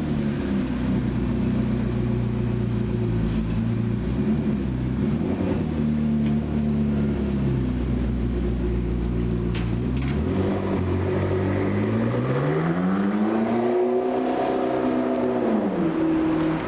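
McLaren MP4-12C's twin-turbo V8 running steadily at low revs. About ten seconds in, it climbs smoothly in pitch as it revs or accelerates, holds there, then drops back down near the end.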